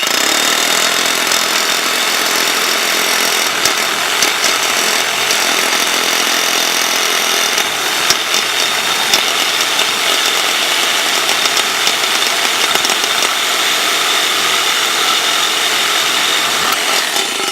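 Power saw cutting through exhaust pipe, running steadily and loudly with a high whine over the cutting noise.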